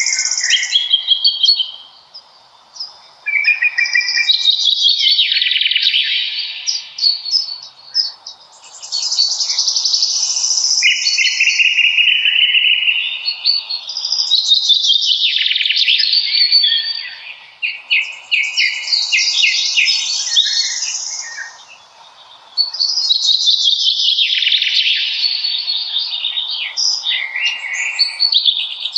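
Songbirds singing: long phrases of rapid trills and chirps follow one another, with brief pauses between them, over a faint steady background hiss.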